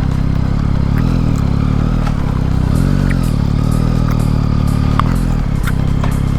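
2021 Yamaha MT-09's three-cylinder engine running while the bike is ridden, its pitch rising and falling a couple of times as the throttle is worked, then dropping sharply about five and a half seconds in.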